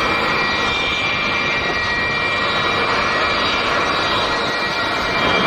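Su-57 fighter jet's engines running, a steady loud rushing noise with high whining tones, changing abruptly near the end.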